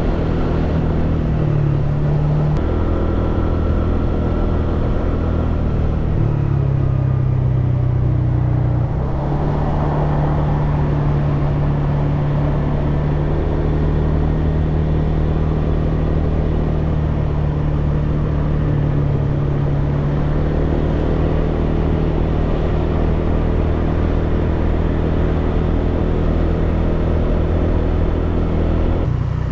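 Honda PCX scooter's single-cylinder four-stroke engine and exhaust running while riding. The engine note dips about six seconds in, then climbs and holds steady.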